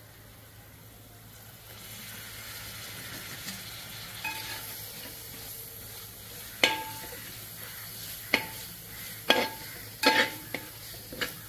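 Onion masala with mint and coriander leaves frying in a metal pot, a soft sizzle building after about two seconds. A metal slotted spatula stirs it, knocking sharply against the pot five or so times in the second half.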